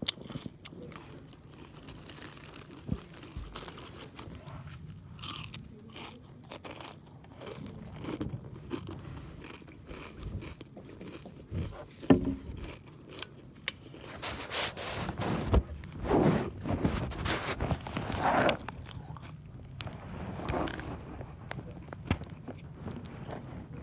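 A person crunching and chewing potato chips close to the microphone: a run of irregular crisp crunches, busiest and loudest from about two-thirds of the way through.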